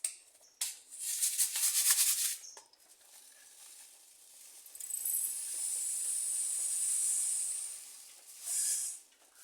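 Dry birdseed rattling and pouring as a seed pot or feeder is emptied and refilled: a rattly burst, then a longer steady pour, then a short final shake.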